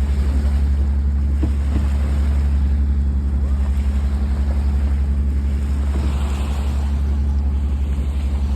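Sailboat's engine running steadily under way, a constant low drone with an even pulse.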